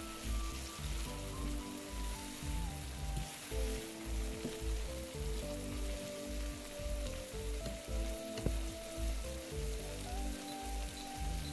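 Diced bacon and red pepper sizzling in olive oil in a frying pan, under background music with a steady beat and a simple melody. A sharp click comes about eight seconds in.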